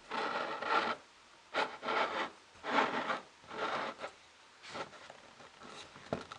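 Wood rubbing on wood as the cedar ring box's lid is swung open and shut on its dowel pin, in about five short rubbing strokes.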